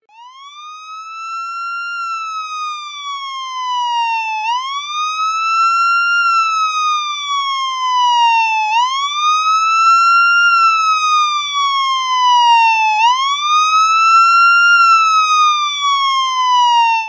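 Siren wailing in a slow, even cycle: the pitch rises over about two seconds, then falls over about two more, four times in all. It fades in at the start and cuts off suddenly at the end.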